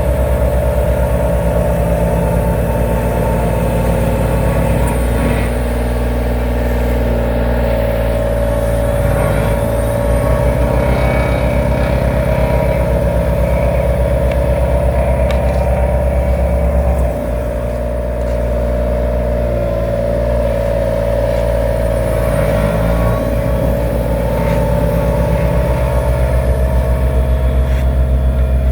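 Heavy diesel road-construction machinery running steadily, with a constant higher hum above the engine note. The engine note shifts several times and drops briefly about two-thirds of the way through.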